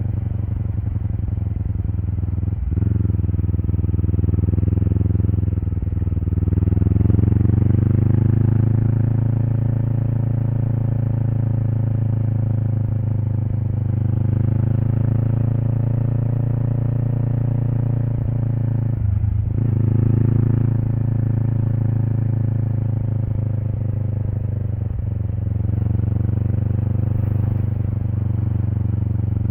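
Kawasaki Eliminator SE's parallel-twin exhaust through a BEAMS aftermarket muffler while riding. The engine note drops sharply for an instant about three seconds in and again near nineteen seconds, like gear changes, and climbs in revs between about six and eight seconds.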